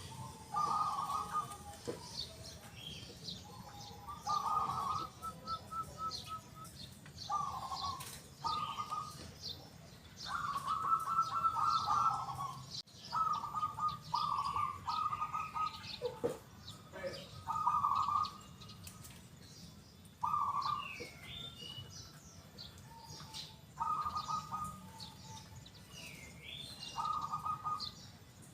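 Zebra dove (perkutut) cooing: about a dozen short phrases of rapid staccato coos, each about a second long, in a big, loud and clear voice, with other small birds chirping higher in the background.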